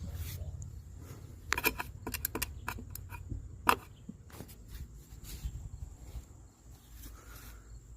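Quick clicking and rattling of a metal licence plate on a locking cabinet hinge as it is flipped, with a single sharp click a couple of seconds in as the hinge locks. A low steady rumble runs underneath.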